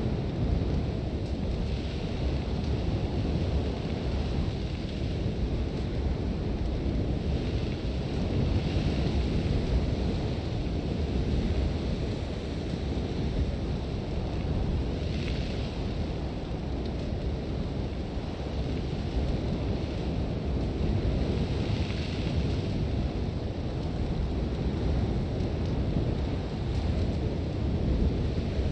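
Sandstorm wind, a steady low rumble with a few brief hissing gusts of blown sand.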